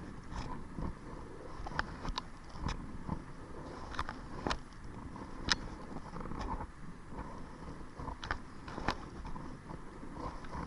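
Kayak paddling: irregular small clicks, knocks and splashes of the paddle on the water and hull, over a low wind rumble on the microphone.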